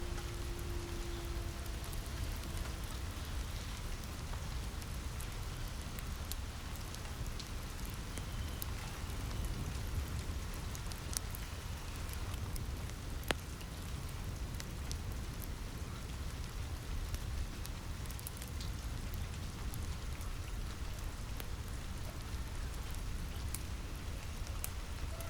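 Steady rain falling on a roof, with a deep steady rumble underneath and scattered sharp crackles from a fireplace fire, one louder crack about halfway through.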